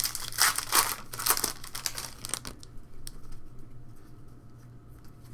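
Trading card pack wrapper being torn and crumpled, crinkling for about two and a half seconds, then a few faint clicks.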